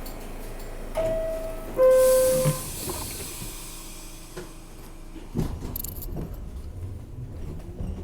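R62A subway car's two-tone door chime, a higher note and then a lower one, with a hiss as the doors close. About five seconds in there is a thump, then the train begins to move with a low rumble and a rising motor whine.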